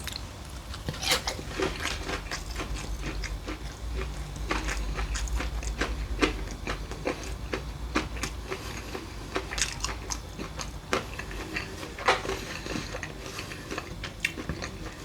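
A person biting and chewing a piece of battered fried chicken, with many short, irregular crunches and mouth clicks.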